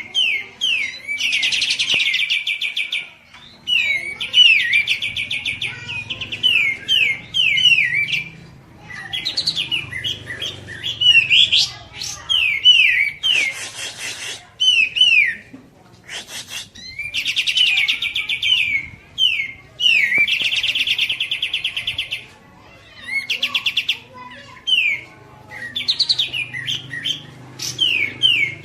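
Songbirds, the kapas tembak and cucak jenggot, calling loudly: runs of sharp gliding chirps repeated several times a second, broken by fast rattling trills and short pauses, with a brief hissing burst about halfway through.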